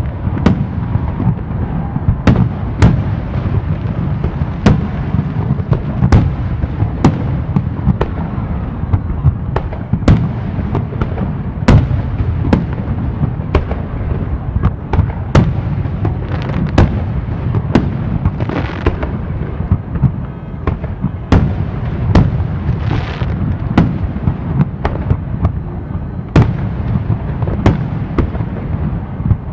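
Fireworks display: a steady run of sharp bangs from aerial shells bursting, about one or two a second, over a continuous low rumble of booms. Twice partway through there is a brief hissing burst.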